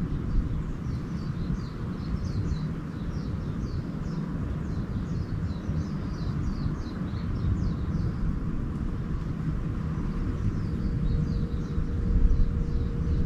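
Small birds chirping in quick runs of short high notes, twice, over a steady low rumble that carries most of the loudness; a faint steady hum joins near the end.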